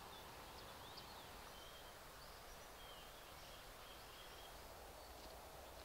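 Near silence: faint outdoor ambience with a few scattered small bird chirps over a quiet hiss.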